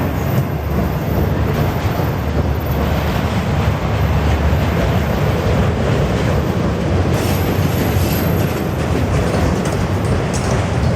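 CN freight train's cars rolling past on the track, a steady loud rumble and rattle of wheels on rail.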